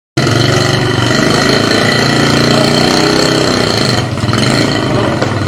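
An engine running steadily with a low hum and a high whine.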